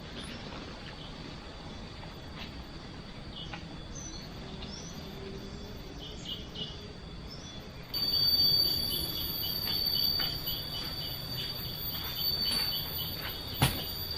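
Forest insects droning with steady high-pitched tones, with a few faint bird chirps. About eight seconds in the sound turns louder and a rhythmic pulsing insect call of about three beats a second joins in, with a sharp knock near the end.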